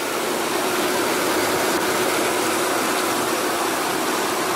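Toyota Tundra's 5.7-litre 3UR-FE V8 idling steadily with the hood open, a steady tone running under the engine noise. The engine is quiet after a new timing chain, guides and hydraulic tensioners: the tensioners have filled with oil and the chain noise of the first seconds after start-up is gone.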